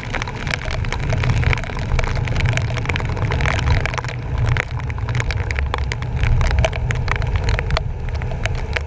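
Rain and splashing water striking a bumper-mounted GoPro's housing in a dense crackle of drops, over the steady low rumble of a truck driving through flooded streets.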